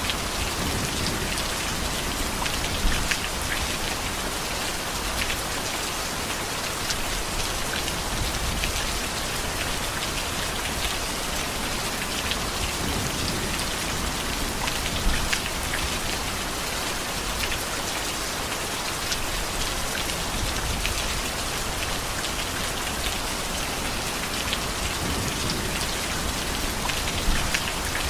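Heavy rain falling steadily, a dense even hiss of drops on surfaces with fine pattering, and a few brief louder spikes along the way.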